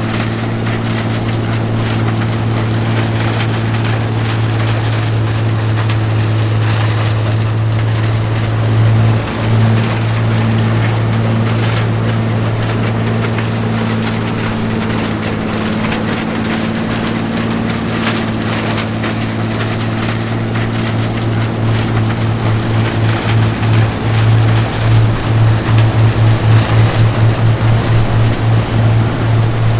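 John Deere 105 combine running steadily under load while harvesting corn, a steady low engine hum with its threshing machinery. In the last third the hum takes on a regular pulsing beat that quickens.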